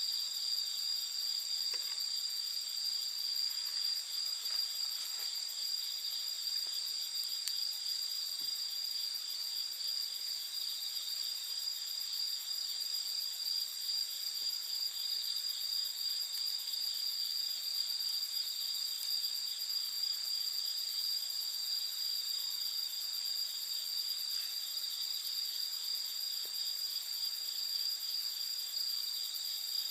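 A steady, high-pitched chorus of night insects chirping, with a few faint crackles from a campfire.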